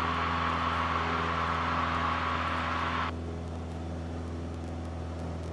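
Cessna 172L's four-cylinder piston engine and propeller running steadily at full climb power, heard as a constant cabin drone. About three seconds in, a hiss layered over it cuts off suddenly and the sound drops a little.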